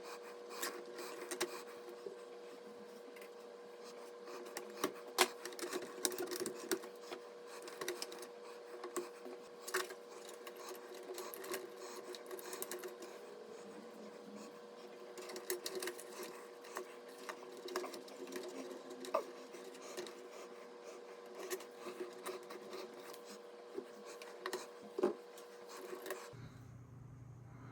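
Irregular small clicks and taps over a steady hum, the kind made by handling hardware. Near the end the hum and clicks cut off abruptly, giving way to a lower hum.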